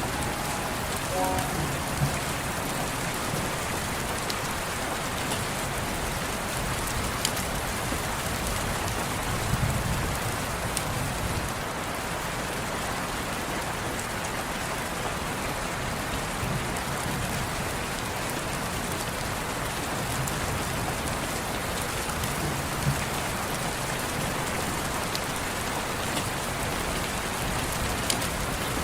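Steady rain falling, an even patter with a few sharper individual drips. The last soft piano notes die away about a second in.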